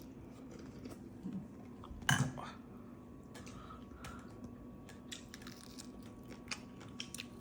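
Faint scattered clicks and crunches of someone eating crawfish, with one short vocal sound about two seconds in.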